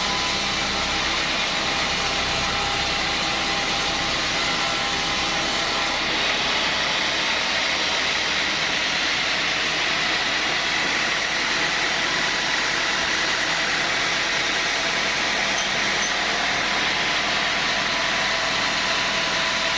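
Sawmill saw machinery running steadily, an even mechanical noise. About six seconds in, its highest hiss drops away.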